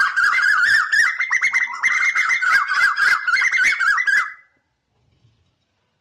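A bird singing a fast, continuous warbling song of quick rising and falling notes, which stops abruptly about four and a half seconds in.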